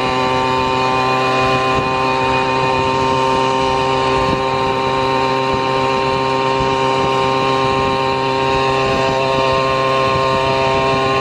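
Motor of the vehicle being ridden, running at a steady speed: an even hum with a constant pitch that does not rise or fall.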